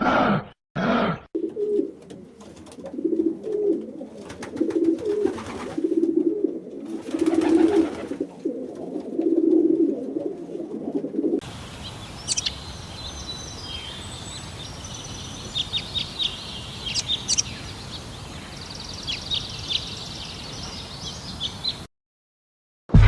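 An animal giving a series of short, low, cooing calls, repeated irregularly about once or twice a second; about halfway through this gives way to birds chirping with quick high notes over a steady outdoor hiss.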